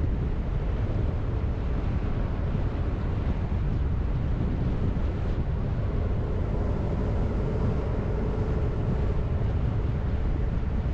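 A car driving at steady speed: an even low rumble of engine and tyres on the road, with some wind noise. A faint hum rises out of it about halfway through and fades near the end.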